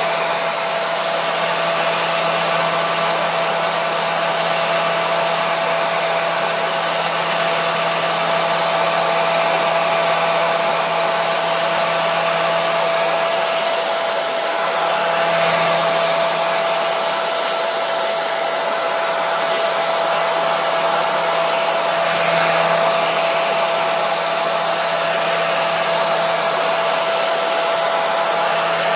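Electric hair dryer running continuously: a steady rushing blow of air with a constant motor hum and a fixed whine.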